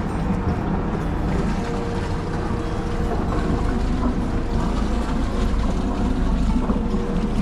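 Boat engine running steadily, a low, even engine noise with a few faint steady tones over it.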